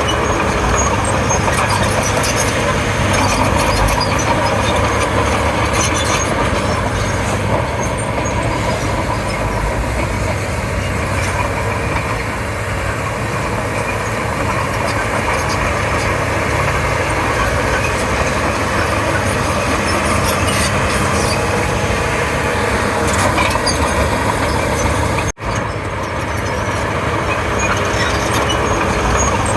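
Komatsu D31P crawler bulldozer's diesel engine running steadily while working. The sound breaks off for an instant near the end.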